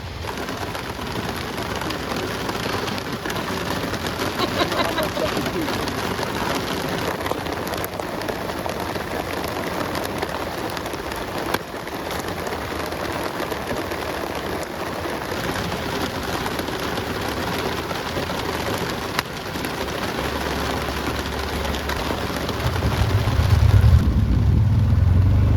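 Heavy rain falling steadily, an even hiss of rain on the ground and the surroundings. A low rumble swells near the end.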